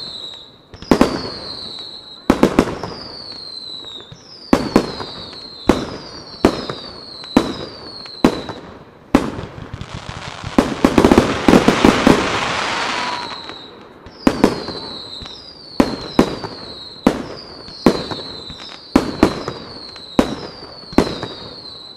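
Starmine fireworks barrage: sharp bangs about one a second, each followed by a short, high, falling whistle. About halfway through, many shells go off together in a dense crackling rush lasting a few seconds, then the steady run of bangs resumes.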